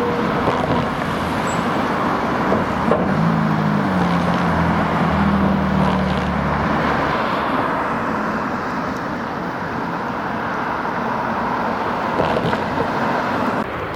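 Steady road traffic noise, with one vehicle's engine note passing and dropping in pitch about three to seven seconds in.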